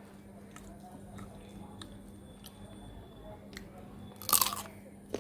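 A person eating close to the microphone: quiet chewing with small mouth clicks, then one louder crunchy bite about four seconds in.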